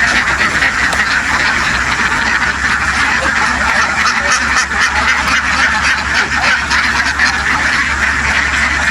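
A large flock of domestic ducks quacking all at once, a dense, steady din of overlapping calls with a low hum underneath.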